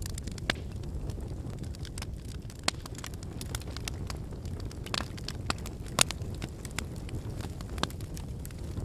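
Wood bonfire burning: a steady low rush of flame with frequent irregular crackles and pops from the burning firewood, the sharpest pop about six seconds in.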